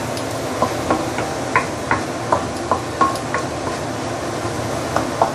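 Curry paste sizzling in a wok over medium-low heat while it is stirred, with a dozen or so short, irregular scrapes and clicks of the utensil against the wok.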